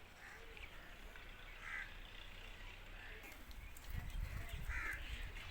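Two harsh bird calls, faint and spaced about three seconds apart, over a low rumble.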